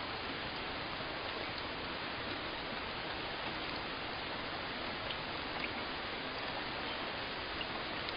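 Steady rain, an even hiss with a few faint drop ticks here and there.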